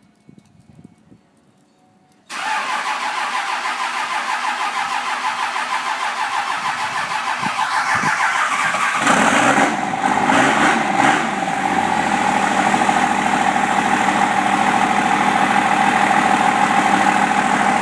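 2001 24-valve Cummins 5.9 L turbo diesel cold-starting through dual exhaust. About two seconds in the starter kicks in suddenly and cranks. The engine catches about nine seconds in with a few rough surges, then settles into a steady idle.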